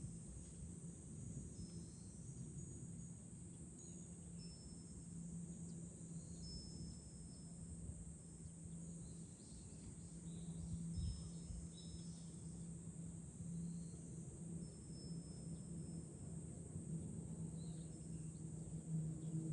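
Summer cicadas droning steadily at a high pitch, with low wind gusts buffeting the microphone and a few brief, high rings of a wind chime.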